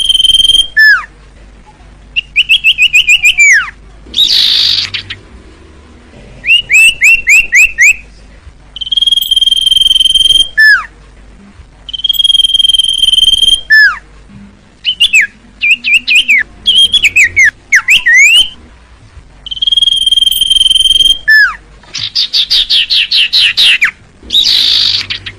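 Common iora (cipoh) singing in repeated phrases. A long steady whistle ends in a falling slurred note, and it alternates with quick runs of short rising notes and a couple of harsh buzzy rasps.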